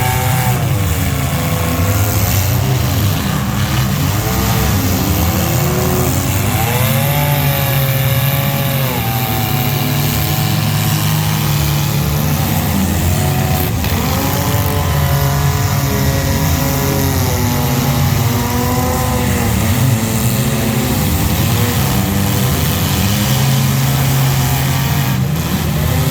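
A competition vehicle's engine running hard, its pitch rising and falling repeatedly as it revs up and down.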